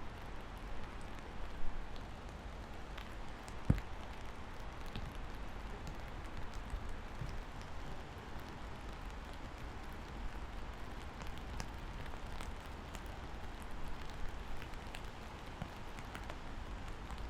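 Steady rain with scattered individual drips ticking, and one louder, deeper drop or thud about four seconds in.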